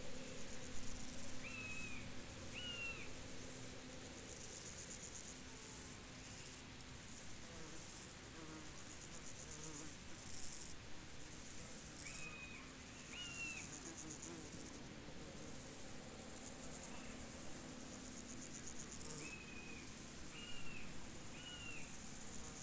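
Field insects chirping in rapid pulsed bursts that come and go, high-pitched and steady in rhythm. A bird gives short high calls in groups of two or three, three times.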